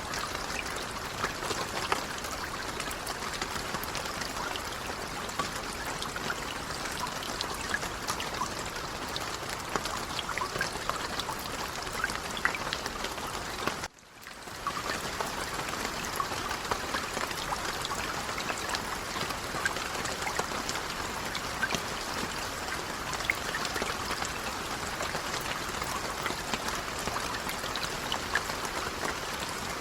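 Light rain falling steadily, a dense patter of many small drops. It cuts out for a moment about halfway and comes straight back.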